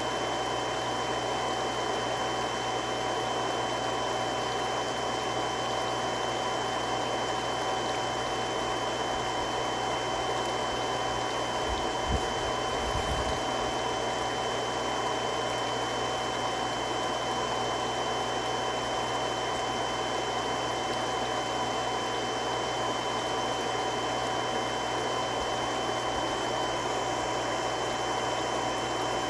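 Three-stage irrigation water pump running steadily: a constant rushing hum with several fixed whining tones over it. A brief low bump about twelve seconds in.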